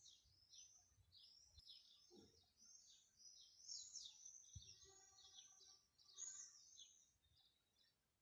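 Faint songbirds chirping steadily, a quick run of short, high chirps one after another.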